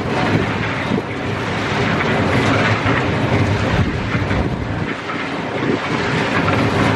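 A machine running steadily, a continuous noisy mechanical sound with a low hum.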